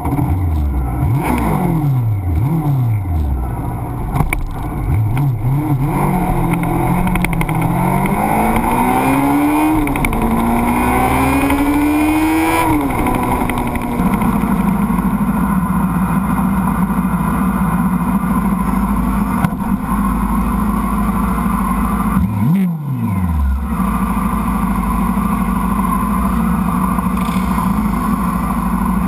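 Honda CBR600F2 sportbike's inline-four engine under way: its pitch falls a few times, then climbs through the gears with a couple of upshifts and settles to a steady cruise. About three quarters through there is a brief sharp drop in pitch and level.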